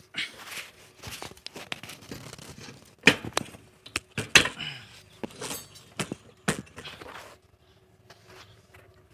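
A series of irregular knocks and clattering, loudest about three, four and a half and six and a half seconds in, stopping shortly before the end.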